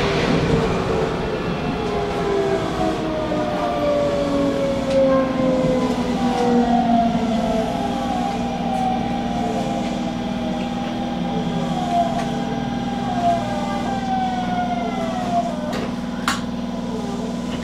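Hanshin commuter train's electric traction motors whining as it brakes into a station. Several stacked tones fall slowly in pitch as it slows, leaving a steady hum once it stops, with a click near the end.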